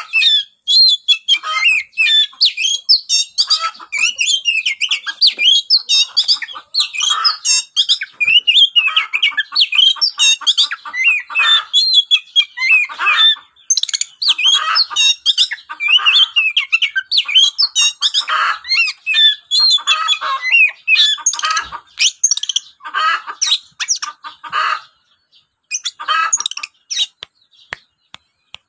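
Many birds chirping and calling at once, a dense stream of short overlapping calls that thins out with brief gaps near the end.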